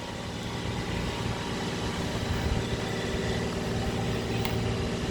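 A steady low mechanical hum, like a motor running continuously, with a few faint ticks.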